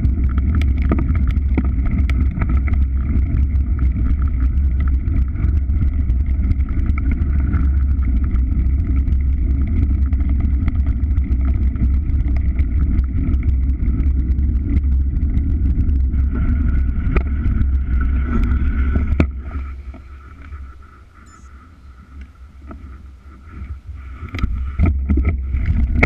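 Steady running noise of a moving vehicle with a heavy low rumble. It falls away sharply about two-thirds of the way through and stays quiet for several seconds before building back up near the end.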